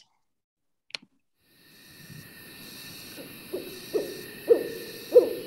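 Mottled owl calling at night: a series of deep hoots about half a second apart, growing louder, over a steady insect chorus, in a field recording played back. A single click sounds about a second in.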